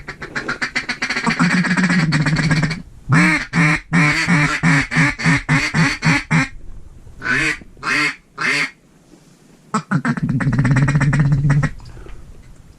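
Hand-blown duck call sounding quacks at a passing flock: a long drawn-out quack, then a run of short quacks about two or three a second, a few more quacks, and another long quack near the end.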